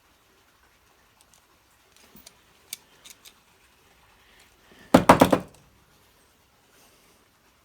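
Small metal hand tools clicking against a carburettor as a stuck main jet is worked at, then a quick run of five or six loud metallic knocks about five seconds in.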